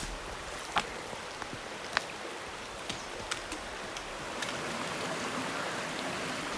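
Mountain stream rushing steadily, getting a little louder about two-thirds of the way through, with a few isolated sharp clicks and knocks over it.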